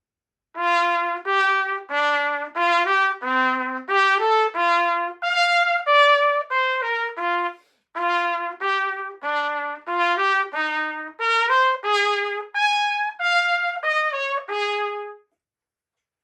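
Small C trumpet playing a short melody of separate notes in two phrases, with a brief break between them, the last note held.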